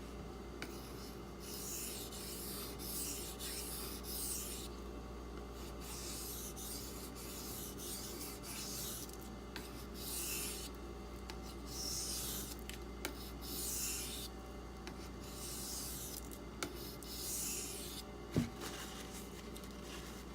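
Steel knife blade being stroked across a silicon carbide sharpening stone, a dry rasping hiss with each pass, about a dozen strokes with short pauses between them. A single sharp knock comes near the end.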